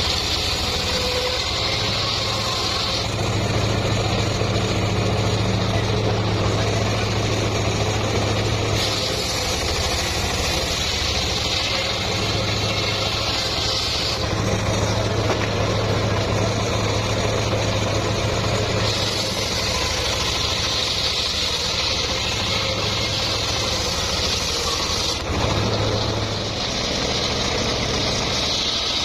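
Engine-driven homemade circular sawmill running steadily, with a high-pitched cutting sound that comes in for several seconds at a time and drops away between passes as the blade works through a teak log.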